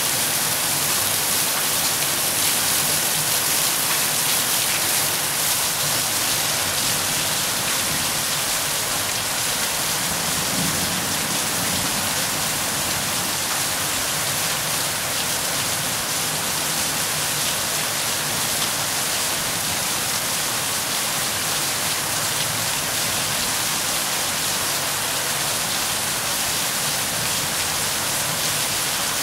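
Rain falling steadily, an even hiss that keeps the same level throughout.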